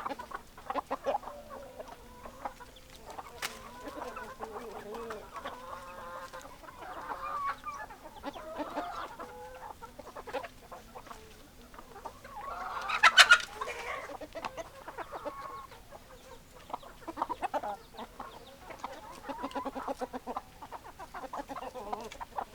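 Chickens clucking, short pitched calls overlapping almost without pause, with one loud call a little past the middle.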